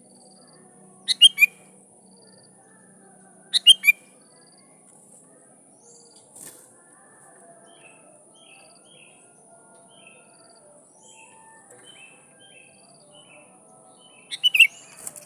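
Sooty-headed bulbul (kutilang) calling: three loud bursts of quick whistled notes, about a second in, at about three and a half seconds and near the end, with faint softer chirps in between. A faint steady high hiss runs underneath.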